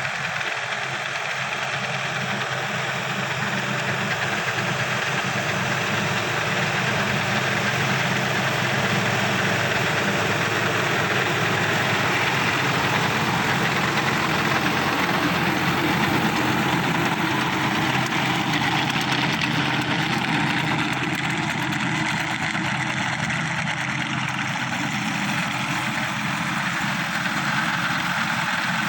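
Sonalika SS 55 turbo tractor's diesel engine running steadily with a knocking clatter, a little louder after the first few seconds.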